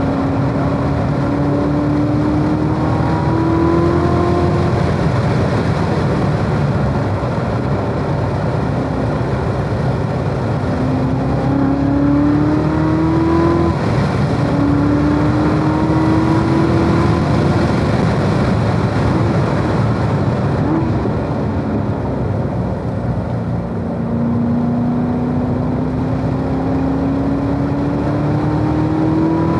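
2017 Corvette Z06's supercharged 6.2-litre V8 at full track pace, over steady road and tyre noise. The engine note climbs and falls away several times with lifts and gear changes, dropping with an upshift about 14 seconds in. It climbs again near the end.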